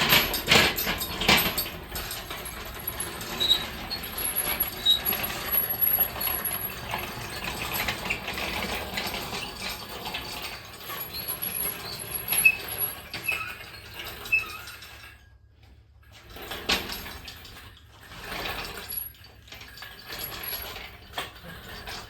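Irregular metallic clicks, clinks and scraping from hands-on work with tools and metal parts, stopping briefly about two-thirds of the way through before resuming in short stretches.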